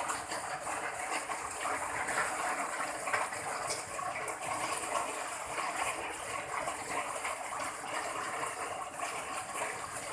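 Heavy rain pouring down steadily in a tropical storm downpour.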